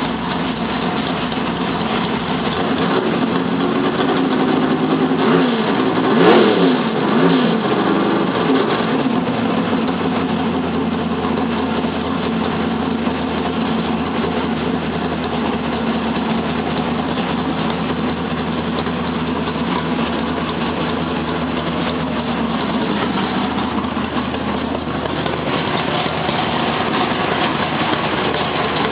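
Drag-race Chevrolet S-10 Blazer's engine running at its first start of the year. It is revved a few times about five to eight seconds in, then settles to a steady idle.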